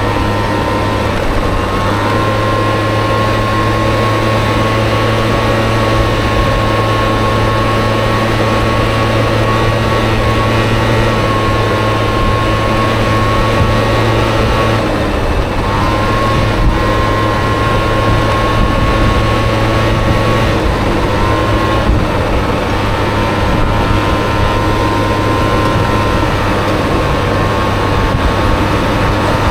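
Engine of a Honda Motocompo scooter fitted with a Honda Dio engine, running steadily while riding. Its pitch drops and climbs back a few times, about a second in, around halfway and about two-thirds through, as the throttle is eased off and reopened.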